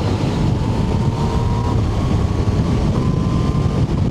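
Yamaha Tracer 900's three-cylinder engine running on the move, with wind and road noise over the helmet microphone. A faint thin whine in the engine note drifts slightly up in pitch.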